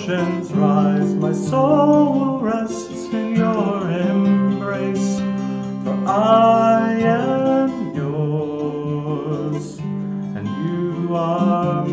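A man singing a slow worship song to his own strummed acoustic guitar.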